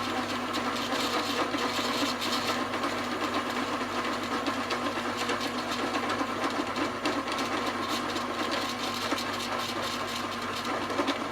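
Homemade metal lathe running under cut while boring a bearing seat: a steady motor hum with a dense, fast rattle from the cut.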